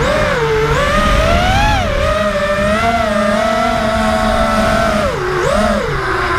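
FPV racing quadcopter's brushless motors and propellers whining, the pitch rising and falling with the throttle and dropping low briefly about five seconds in.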